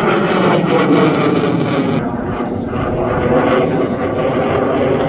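Fighter jet engine noise from a jet flying over in the air display, a loud steady rush of sound. About two seconds in, the high end drops away abruptly and the sound turns duller.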